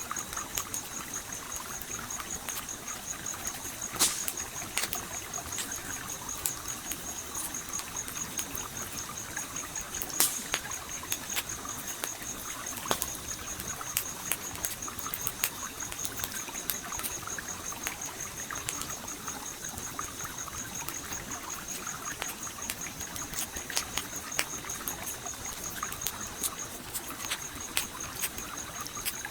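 Campfire crackling with sharp pops, the loudest about four and ten seconds in, over the steady flow of a stream. A high, evenly pulsing tone runs along with it and breaks off briefly near the end.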